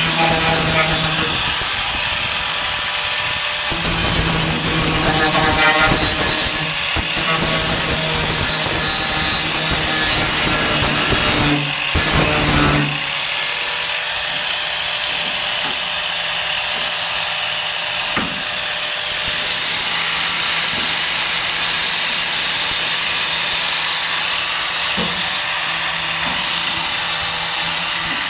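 A 4.5-inch angle grinder running continuously against the truck bed's steel sheet metal, a loud steady whine and hiss, with the low rumble dropping away about halfway through as the load on the wheel changes.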